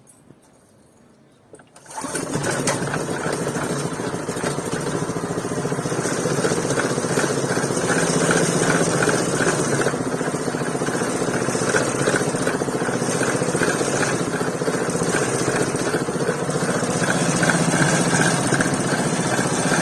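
A 6.5 hp Honda-clone single-cylinder four-stroke engine starting about two seconds in and then running steadily, with an even, fast rhythmic clatter over it as it drives the homemade dirt-filter sieve.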